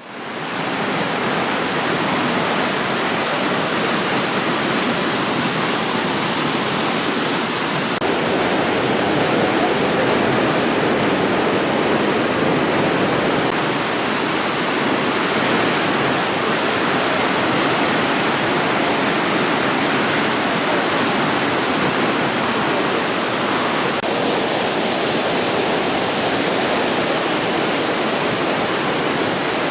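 Loud, steady rush of a large waterfall, the tone shifting slightly about 8 and 24 seconds in.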